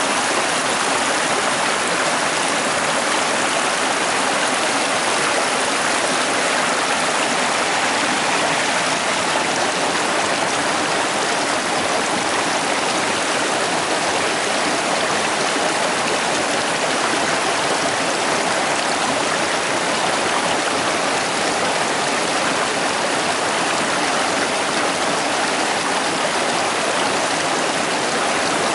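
The upper Prut, a mountain stream near its source, flowing steadily with an even, unbroken rush of water.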